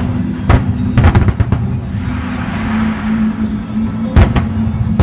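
Aerial fireworks bursting: a sharp bang about half a second in, a quick cluster of bangs about a second in, and two more near the end, each with a short echoing tail, over a steady low drone.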